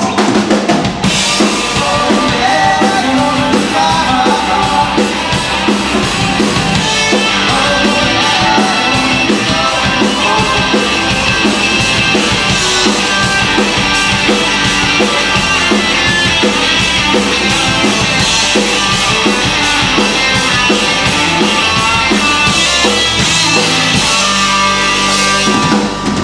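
Instrumental passage of a rock song: a drum kit with bass drum and snare plays a steady beat under the band, with no singing.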